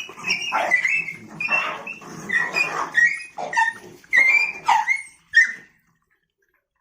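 Dogs whining and yelping in a quick series of short, high, wavering calls that cut off about five and a half seconds in.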